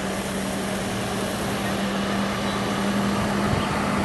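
A motor vehicle's engine running steadily, a constant hum over a wash of traffic or water noise.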